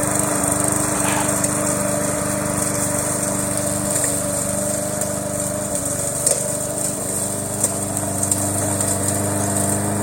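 Home-built remote-control lawn mower running steadily with an even, unchanging hum as it drives, with a few short knocks in the second half.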